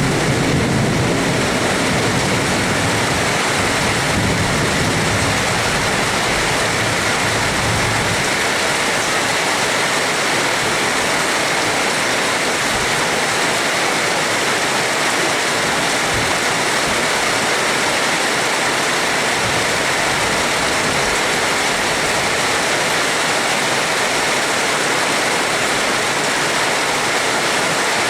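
Heavy, steady rain making an even hiss. A low rumble of thunder dies away over the first eight seconds or so.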